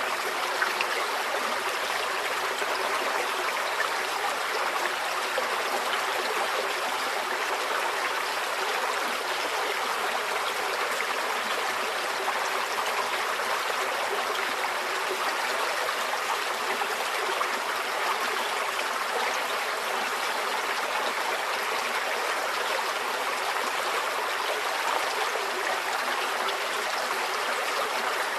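Shallow forest stream flowing steadily over stones, a continuous babbling and trickling of water with no pauses or changes.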